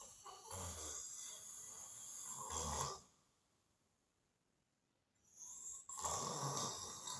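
A man snoring: one long, rattling snore lasting about three seconds, a pause of about two seconds, then another snore starting about five seconds in.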